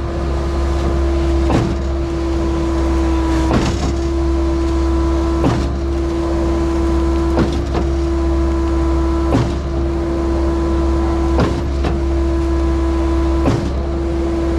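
Skid-steer-powered Mud Demon concrete line pump running steadily while pumping concrete, with a sharp knock about every two seconds as the pump cycles its strokes.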